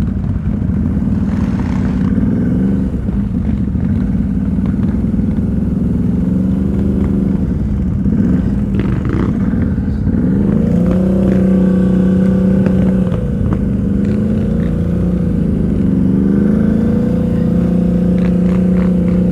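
ATV engine running at low revs, its pitch rising and dipping a few times as the throttle changes, with a few light clatters.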